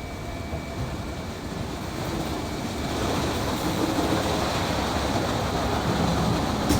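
Car wash running: a steady rushing noise that grows louder about three seconds in.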